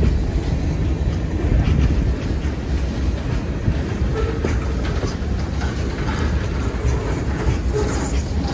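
Open-top hopper cars of a freight ballast train rolling past: a steady low rumble of steel wheels on rail, with a few light clanks.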